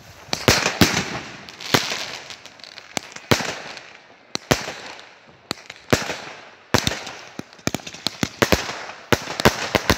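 Fireworks going off: a string of sharp bangs at irregular spacing, with a hissing crackle between them, coming thicker and faster near the end.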